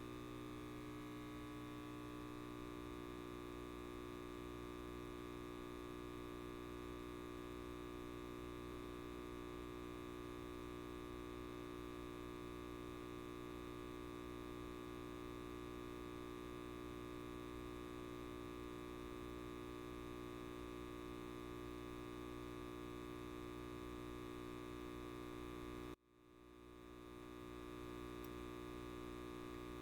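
Light bulb buzzing: a faint, steady electrical hum with many evenly spaced overtones. About four seconds before the end it cuts out suddenly, then swells back up over a second or two.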